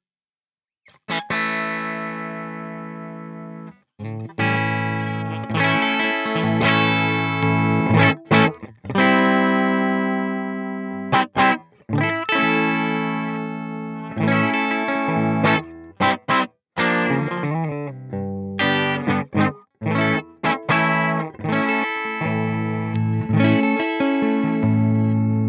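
Electric guitar with humbucking pickups played through a Peace Hill FX TR tube preamp pedal. After about a second of silence, chords are struck and left to ring, in short phrases with brief breaks.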